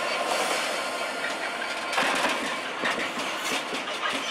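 A Class 66 diesel-electric locomotive, with its EMD two-stroke V12, running as it passes close by at the head of a loaded coal train. The wheels clatter on the rails, with sharp clicks about two and three seconds in.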